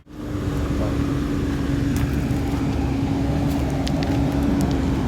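Heavy diesel dump truck engine running steadily, a low rumble with a constant hum, starting just after a brief dropout.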